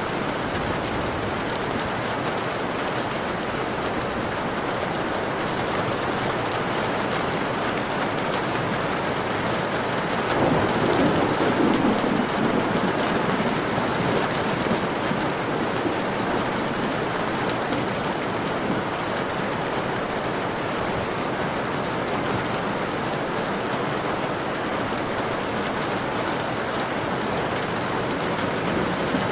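Steady rain falling on a window pane. About ten seconds in, a low rumble of thunder swells and fades away over a few seconds.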